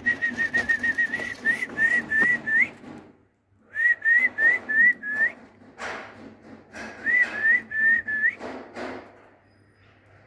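Three runs of short, clear whistled notes, each with an upward flick at its end: a fast run of about a dozen notes, then a brief gap, then two slower runs of about five notes each. A few short scuffing noises fall between the runs.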